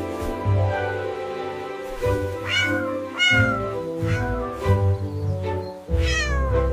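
A cat meowing a few times, each meow falling in pitch, over background music.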